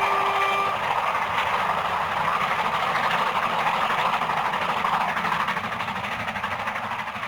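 Steam locomotive whistle, a held tone that cuts off under a second in, then the steady running noise of the train going by, fading away over the last couple of seconds.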